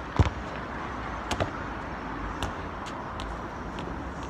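Steady outdoor traffic and street background noise, with a few short sharp thuds, the loudest just after the start.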